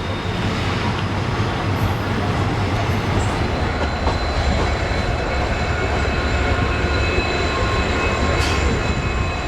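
Passenger train running: a steady rumble of wheels on the track with continuous noise, and faint high steady tones joining about four seconds in.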